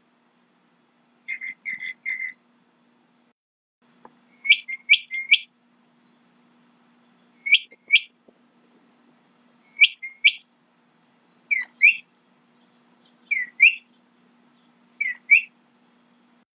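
A bird calling: three short notes about a second in, then from about four seconds in quick rising notes in twos and threes, repeated roughly every two seconds.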